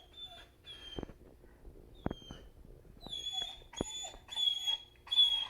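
German Shepherd dog whining in a string of high-pitched whimpers, a few short ones at first and then louder, longer ones in the second half, with a few sharp clicks between them. The whining comes as he stares at a bird feeder.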